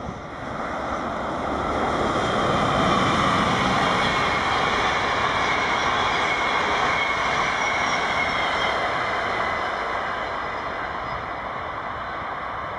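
A train passing on the tracks: its running noise swells over the first couple of seconds, holds, then slowly fades, with a faint high whine from the wheels on the rails above it.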